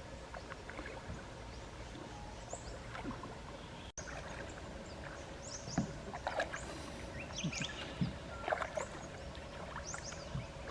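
Kayak paddles dipping and splashing in calm river water, with irregular small splashes and drips, and short high chirps in the background.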